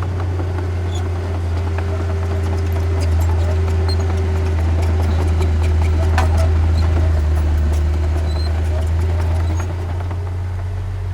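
Heavy diesel engine of earthmoving machinery running with a steady low drone, growing louder from about three seconds in and easing off near the end, with scattered clicks and clanks over it.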